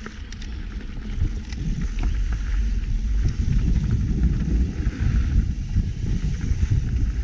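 Wind buffeting the microphone of a bike-mounted action camera while a mountain bike is ridden, a steady low rumble with a few small clicks and rattles from the bike.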